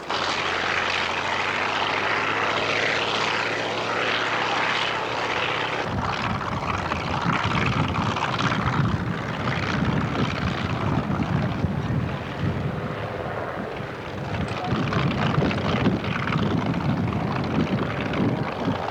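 Propeller-driven light aircraft's piston engine running with a steady droning tone. About six seconds in, the sound changes abruptly to a rougher, rumbling noise.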